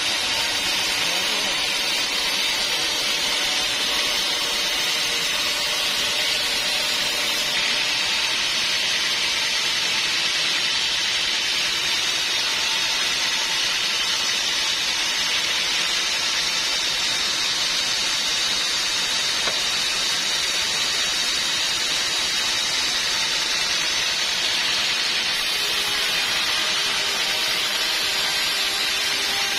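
Sawmill saw cutting through a log: a steady, high hissing whine that holds at an even level throughout.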